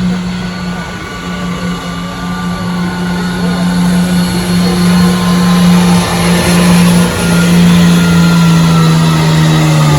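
Pulling truck's engine held at high revs under heavy load as it drags the weight sled down the track, a steady high-pitched drone that grows louder through the second half.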